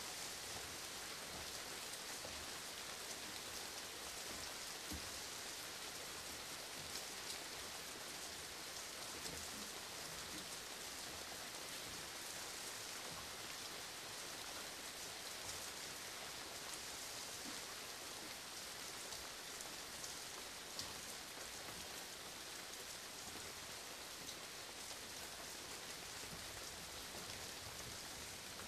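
Steady rain falling, an even hiss with many small drop impacts throughout and no thunder.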